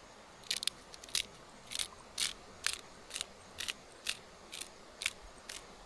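Pepper grinder being twisted over a steak to grind black pepper: a run of short, crisp grinding crunches at about two a second.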